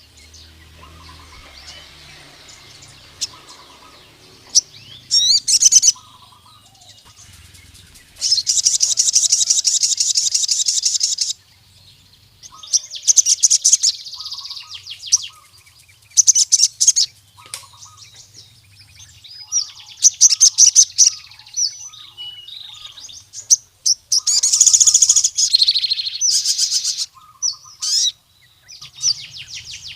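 Male sogon (ruby-cheeked sunbird) singing in a loud, energetic ('gacor') way, calling out to a rival male: bursts of rapid, high-pitched trills, one lasting about three seconds, separated by softer chirps.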